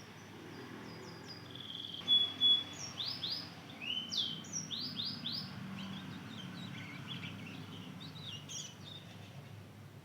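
Young mozken, a Mozambique singing finch × canary hybrid about two months old, twittering its subsong as it learns to sing. It gives a rambling string of high chirps and quick downslurred notes, with one short held note about two seconds in, then trails off near the end.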